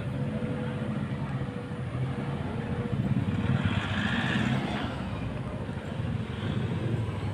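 Motor vehicle engine running steadily, swelling louder for a moment about four seconds in.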